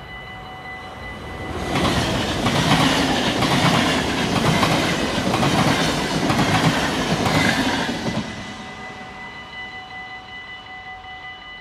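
Yellow-and-blue NS double-deck passenger train passing over a level crossing: its rumble and wheel clatter swell up about two seconds in and die away about eight seconds in. Under it, the crossing's warning bell rings steadily.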